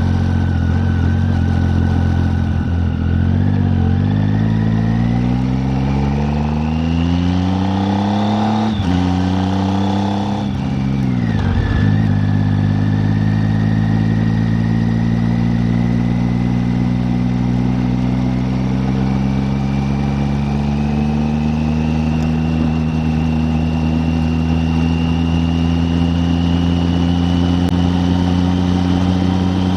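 Triumph Tiger 800's three-cylinder engine under way, its note rising through the revs with two quick gear changes about a third of the way in. It then climbs slowly and steadily in one gear for most of the rest, dropping suddenly near the end.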